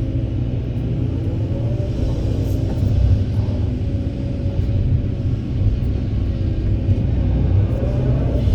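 Kobelco SK200 excavator's diesel engine working under load with a steady low rumble, and a whine that rises and falls with the hydraulics.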